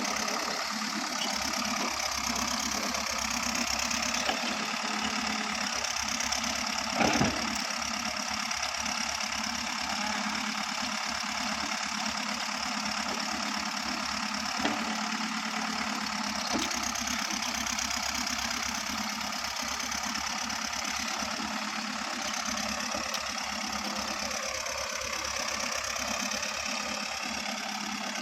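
Heavy diesel engine running steadily with a fast low pulsing beat, and one short louder burst about seven seconds in.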